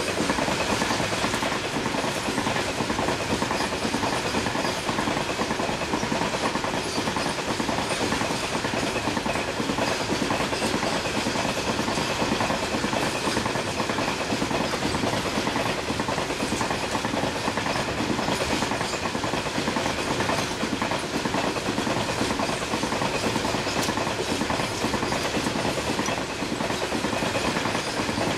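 A long goods train of covered wagons rushes past close alongside at speed, heard from the open doorway of a moving train. The wheels clatter steadily over the rail joints in a loud, continuous roar.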